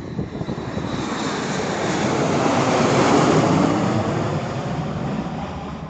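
A DHL cargo jet coming in to land and passing close by, its engine noise swelling to a peak about halfway through and then fading away.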